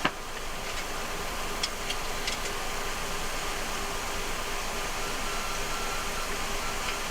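Steady rushing noise on the flight deck of a Boeing 737-300 in descent: airflow and air-conditioning hiss. There is a sharp click at the start and a few light clicks a second or two in. A faint, broken high tone comes in over the second half.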